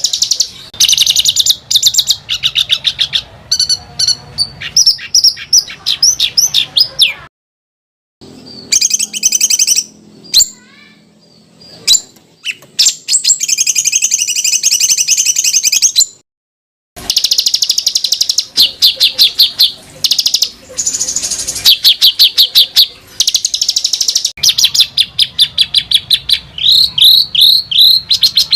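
Songbird masteran recording of dense, fast trills and harsh rattling notes mixed with quick slurred whistles. The song is spliced, and it cuts out abruptly twice, about seven and sixteen seconds in, for under a second each time.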